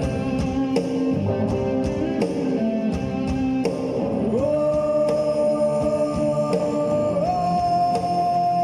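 Live punk rock band playing, drums with regular cymbal hits under distorted guitars. From about halfway a long held melody line comes in and steps up a note near the end.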